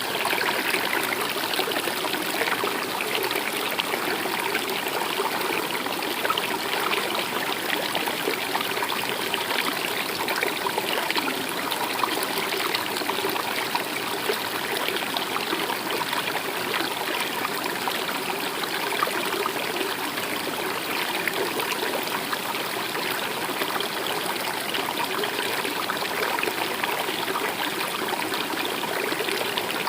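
Running water of a stream, flowing steadily and evenly with a constant trickle.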